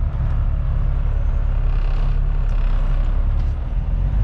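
Kenworth T660 semi truck's diesel engine running with a steady low rumble, with a brief hiss of air about two seconds in.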